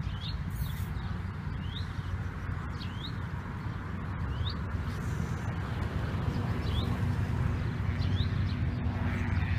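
A bird calling over and over, a short rising chirp roughly every second or two, over a steady low rumble.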